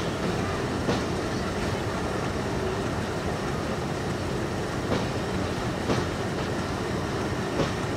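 Passenger coaches rolling slowly along a station track, with a steady rumble and a few sharp wheel clicks at the rail joints, about a second apart at first and then several seconds apart.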